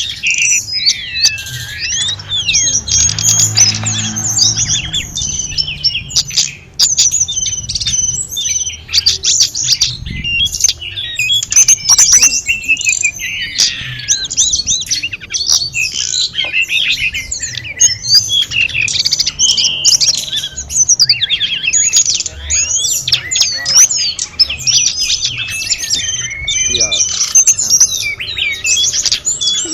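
Tledekan gunung songbird singing a rapid, continuous stream of varied high chirps, trills and twittering phrases.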